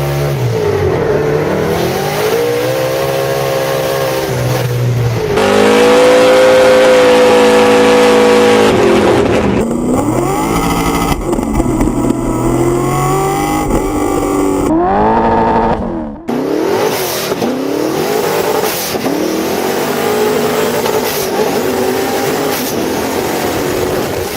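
LS3 V8 engine of a BMW E30 drift car revving hard, its pitch rising and falling again and again. The sound jumps abruptly between takes a few times.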